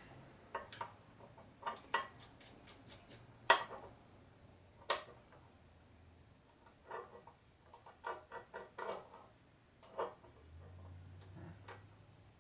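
Scattered light clicks and metal clinks of small steel setup pieces being handled and set down on a machine table, with two sharper knocks about three and a half and five seconds in, the second ringing briefly. A faint low hum comes in near the end.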